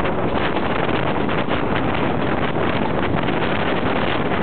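Wind rushing over the microphone out the window of a moving passenger train, over the steady running noise of the train's wheels on the rails.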